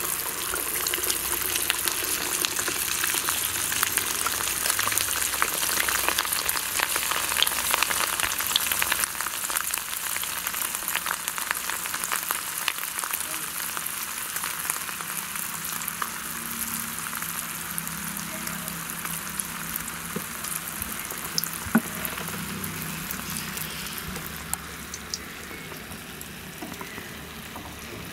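Rice-and-jaggery neyyappam batter sizzling and crackling as it deep-fries in hot oil. It is loudest in the first several seconds after the batter goes in, then gradually settles, with one sharp pop later on.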